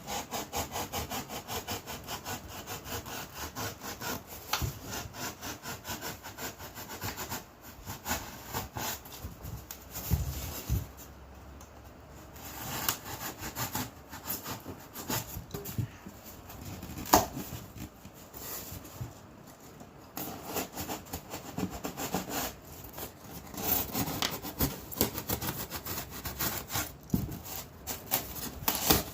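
Rapid back-and-forth sawing strokes, cutting into the ice box to make its air holes, with a brief pause partway through. A single sharp knock is heard a little past the middle.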